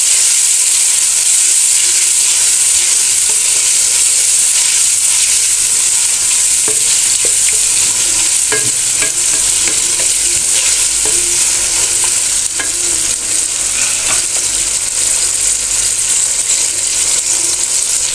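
Onion-and-tomato masala frying in oil in a metal pan, sizzling steadily, while a wooden spatula stirs it with occasional light scrapes and taps against the pan.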